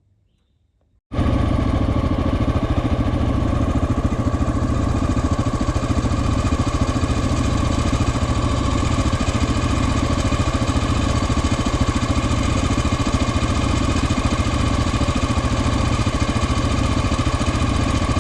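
Dual-sport motorcycle engine idling steadily and close by, cutting in abruptly about a second in, with no revving.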